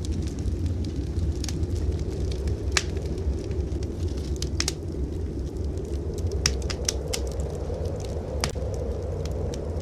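Wood fire crackling in a fireplace, with sharp pops scattered irregularly through it over a steady low rumble.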